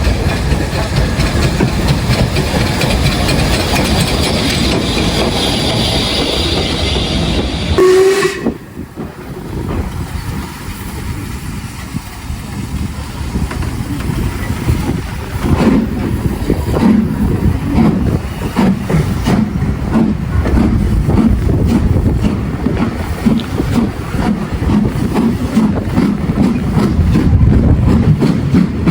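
Stanier Class 8F steam locomotive train running: steady rumble and hiss, a sudden break with a short tone about eight seconds in, then a rhythmic clatter that builds up and grows louder toward the end.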